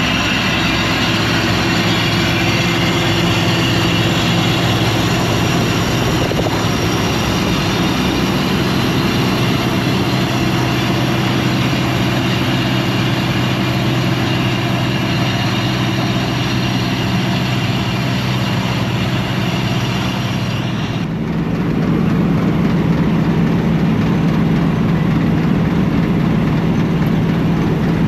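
Large diesel engine of harvest machinery running steadily under load. About three-quarters of the way through, the high hiss drops away and the low engine hum becomes louder.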